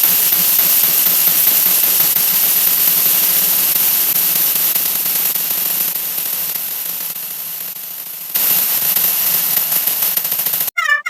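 A 'wah wah' sound effect sped up so far that it has turned into a steady static-like hiss. It fades a little, jumps back up about eight seconds in, and near the end cuts suddenly to a high, warbling squeal.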